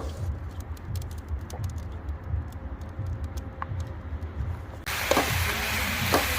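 Pinecone cooking fire crackling with small sharp clicks over a low rumble, then a loud, steady sizzling hiss that starts suddenly about five seconds in.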